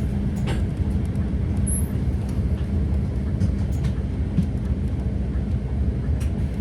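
Scania CK320UB Citywide city bus's diesel engine running with a steady low hum, with a few light clicks and rattles now and then.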